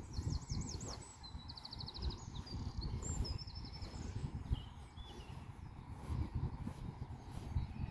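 A small songbird singing quick, high trilled phrases over the first few seconds, then a few fainter notes, over a steady low rumble of outdoor noise.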